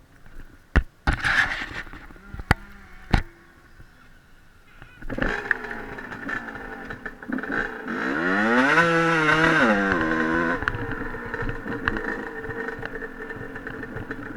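A few sharp knocks, then a dirt bike engine catches about five seconds in, is revved up once and back down, and settles into a steady idle.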